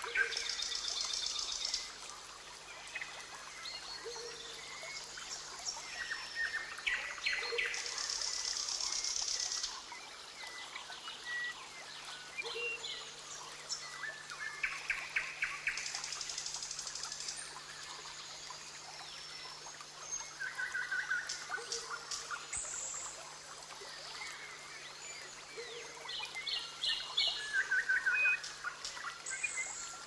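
Mixed forest birdsong: several birds overlapping in short chirps, trills and whistles, with a high, buzzy trill of a second or two recurring every several seconds.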